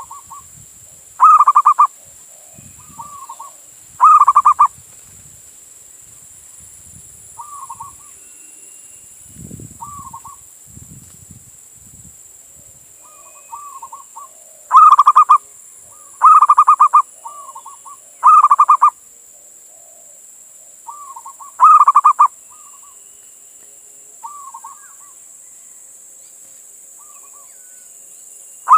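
Male zebra dove (perkutut) cooing: loud calls of about half a second, each a quick run of pulsed notes, repeated in groups, with softer short coos between them and a pause of several seconds near the middle.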